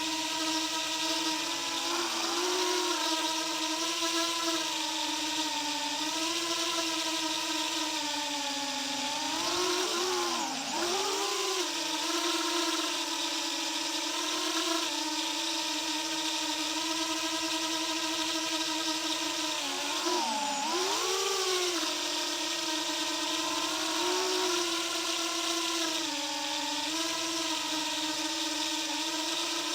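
Motors and propellers of a 2.5-inch FPV quadcopter whining steadily. The pitch dips and swings back up twice as the throttle changes, about a third and two thirds of the way through.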